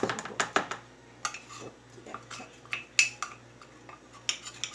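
Spoon knocking and scraping against a mixing bowl while stirring thick bolinho de chuva batter: a quick run of clinks for about the first second, then slower, scattered knocks.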